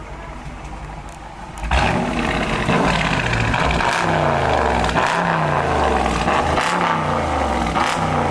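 2021 Dodge Charger R/T's 5.7-litre HEMI V8, with the mid mufflers cut out and the rear mufflers and stock tips kept, idling and then revved hard about two seconds in. A run of quick revs follows, each rising and falling in pitch, about one a second.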